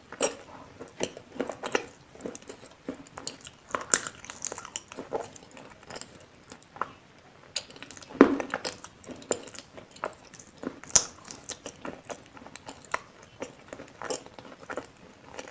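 Biting and chewing food with crunching, a run of irregular short crunches and mouth clicks, loudest about eight seconds in and again near eleven seconds.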